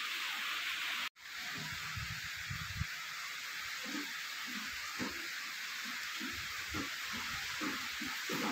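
Heavy rain pouring with a steady, dense hiss over a corrugated metal roof and a water-covered floor, with irregular soft splashes. The sound drops out for a moment about a second in.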